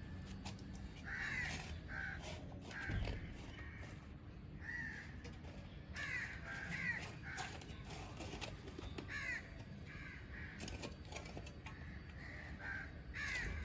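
Pet parrots giving short calls over and over at irregular intervals, sometimes two or three in quick succession.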